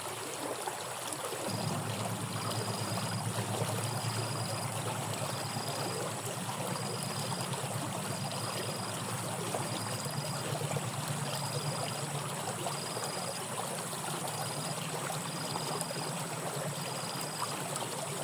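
Water flowing steadily along a rain-swollen drainage ditch, with a low rumble that comes in about a second and a half in. A faint high beep repeats about every 0.8 seconds.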